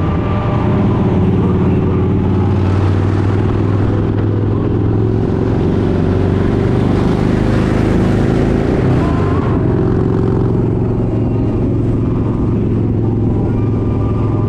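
Kawasaki Vaquero 1700cc V-twin engine running steadily under way, with wind and road noise swelling midway and easing off again.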